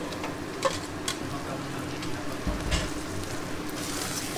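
Chopped beef lung and liver sizzling in hot oil and rendered beef fat in a metal pot as they are tipped in and stirred, with a few sharp clinks of pan and spoon and a dull knock about halfway.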